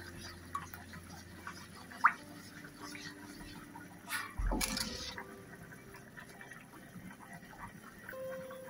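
Spice paste frying in hot oil in a metal karahi, sizzling and bubbling faintly while it is stirred with a wooden spatula, with scattered light ticks and scrapes. A louder knock comes about four and a half seconds in.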